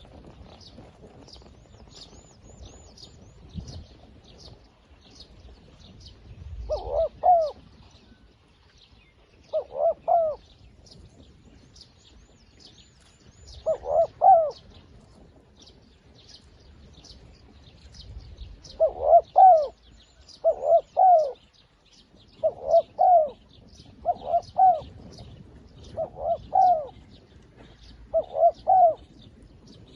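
A decoy dove cooing in short, loud two-note phrases, a few spread out at first and then repeated about every second and a half. Behind them, thin high chirps of small birds run continuously.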